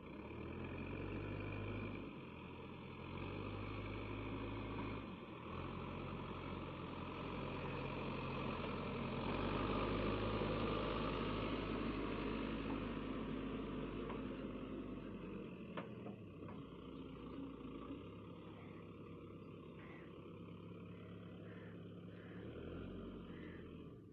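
Heavy diesel engine running, its speed rising and falling several times as it is worked under load. It is loudest around the middle of the stretch.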